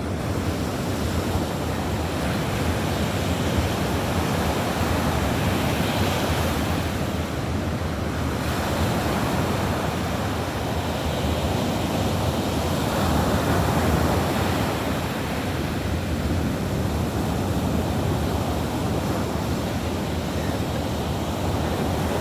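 Baltic Sea surf breaking and washing on the beach, swelling and easing in slow surges, with wind rumbling on the microphone.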